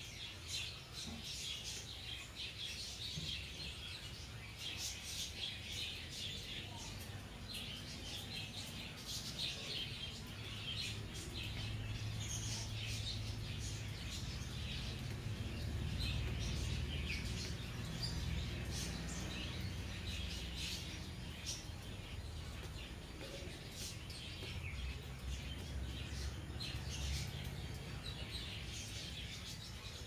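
Small birds chirping in quick, repeated short calls. A low rumble swells up under them around the middle and fades near the end.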